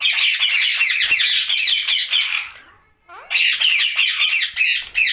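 Indian ringneck parakeet squawking loudly in two harsh, rapid chattering bursts, the first about two and a half seconds long, then after a short pause a second one of about two seconds.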